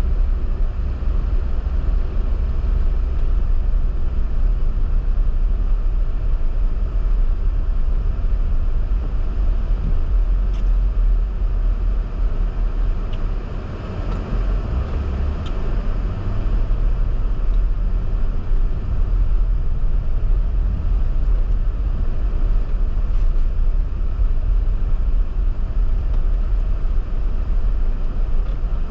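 Car being driven: a steady low engine and road rumble, with a few faint ticks.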